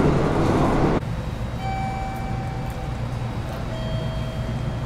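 A Kagoshima Main Line rapid train running, heard from inside the carriage as a steady rumble that cuts off suddenly about a second in. A quieter steady hum follows, with two held electronic-sounding tones, the second lower than the first.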